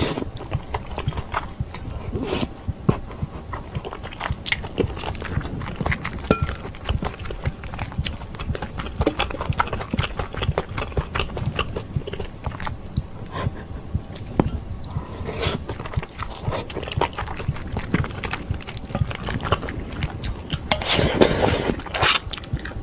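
Close-miked chewing of ramen noodles and dumpling: a steady run of wet mouth clicks and smacks, several a second. Near the end, a louder slurp as broth is drunk from a steel bowl.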